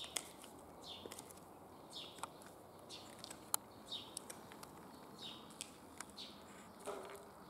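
A bird repeating a short falling call about once a second, with a few sharp clicks of platform high heels striking concrete.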